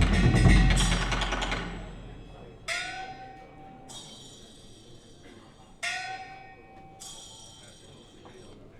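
Recorded percussion music played over hi-fi loudspeakers: the drumming dies away in the first two seconds, then two single struck bell-like notes ring out about three seconds apart, each decaying slowly with a high shimmer after it.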